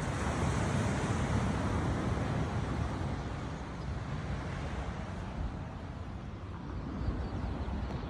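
Ocean surf rushing, swelling over the first few seconds, easing off, then building again near the end, with wind rumbling on the microphone.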